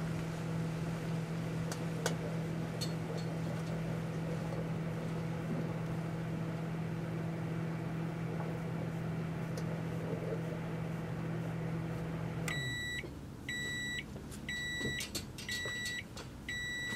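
Microwave oven running with a steady low hum, which shuts off about twelve seconds in. Then five evenly spaced high beeps, about one a second, signal that the cooking cycle has ended.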